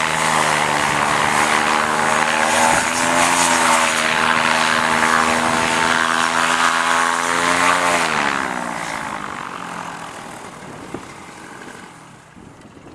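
Paramotor engine and propeller running hard and steady, then dropping in pitch about eight seconds in and dying away over the last few seconds as the engine is throttled down.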